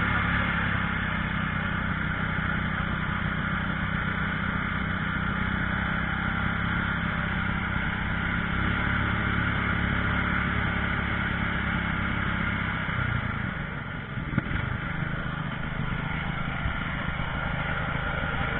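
A fire-brigade engine running steadily on test. About thirteen seconds in its sound briefly drops and shifts, and a single sharp click follows, then it runs on steadily.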